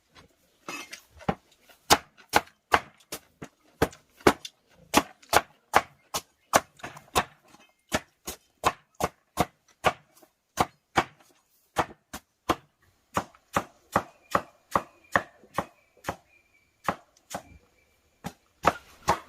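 Steady chopping with a blade, sharp even strokes about two a second.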